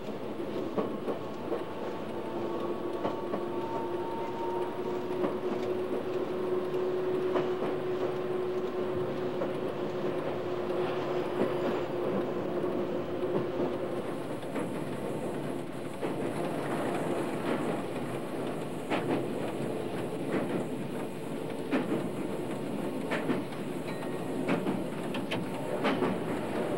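A passenger train running on the rails: a steady rolling rumble with the clack of wheels over rail joints, the clicks coming more often and more distinctly in the second half.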